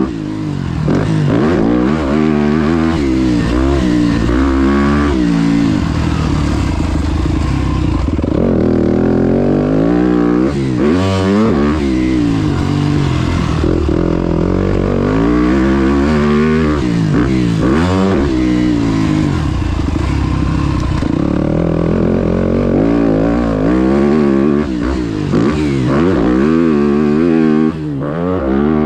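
Motocross bike engine, revving up and dropping back again and again as the throttle is opened and closed while riding, with a few short stretches held at steady revs.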